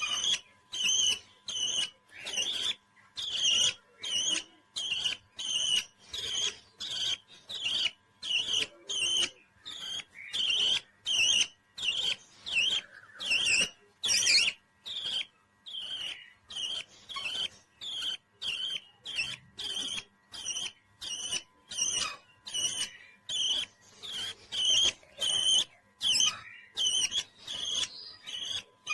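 Pet parrot calling over and over in short, high chirping calls, nearly two a second, in an even rhythm.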